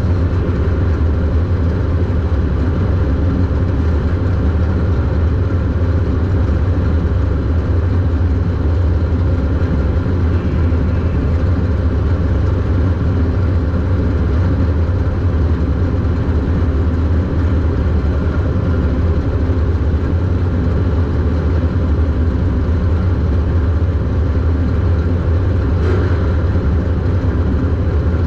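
Super Stock race car engine heard from inside the car, running with a loud, steady low drone that holds an even pitch throughout, with no revving up or down.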